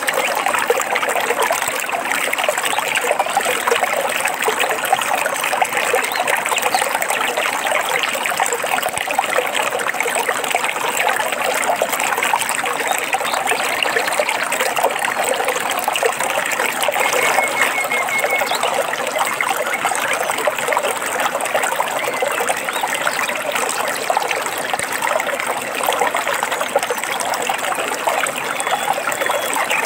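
Water trickling and babbling steadily, like a shallow stream running over stones. A brief faint bird call sounds a little past halfway.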